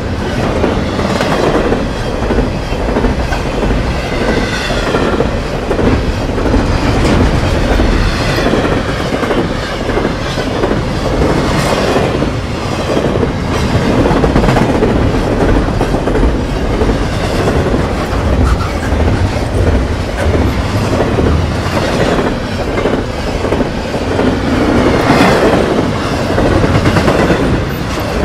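Double-stack intermodal container train passing close by: a steady rumble and rattle of the well cars, with the steel wheels clattering over the rail joints.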